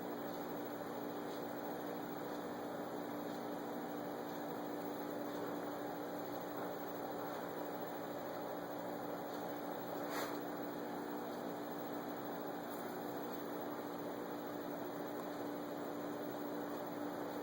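Steady low hum over an even hiss, with a single faint click about ten seconds in.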